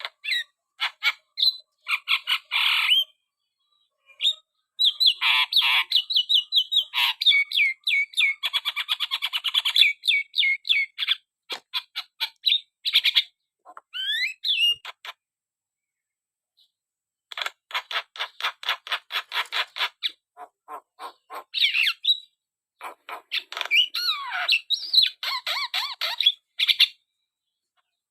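Javan myna (jalak kebo) calling vigorously: fast chattering runs of clicks and harsh squawks mixed with short whistled glides, with a pause of a few seconds past the middle.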